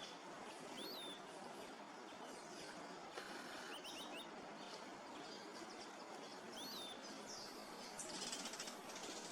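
Faint forest ambience: a steady hiss with a few short, high bird chirps, one about a second in, a quick cluster around four seconds and another near seven seconds. A brief high buzzing comes in near the end.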